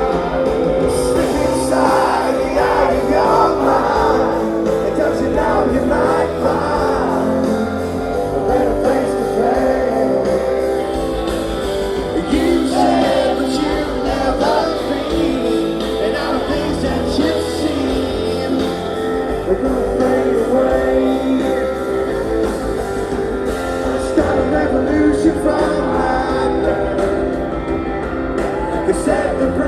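Live rock band playing an anthemic song in a large hall: guitar and band with singing over it, steady and loud throughout.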